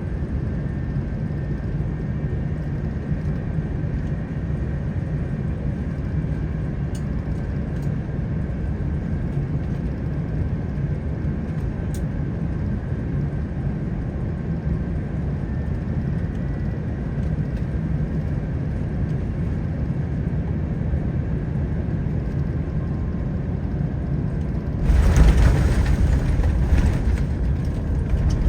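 Airbus A350-900 on a crosswind landing: a steady low hum from the engines and airflow on final approach. Near the end it breaks into a sudden, louder rumble and rattle as the wheels touch down and roll along the runway.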